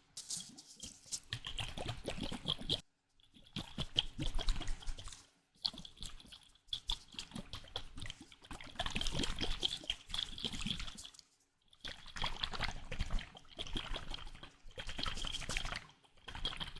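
Slime being squished and worked by hand, wet crackling and squelching in repeated bouts of a few seconds with short pauses between them.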